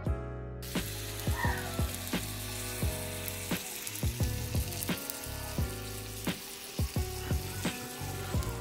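Buttered peanut butter sandwich sizzling as it fries in a nonstick pan; the hiss comes in about half a second in. Background music with a steady beat plays underneath.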